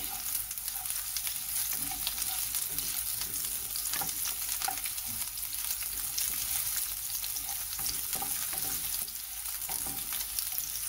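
Chopped onion and ginger sizzling in hot oil in a nonstick pan, stirred with a wooden spatula that scrapes and taps the pan with short clicks.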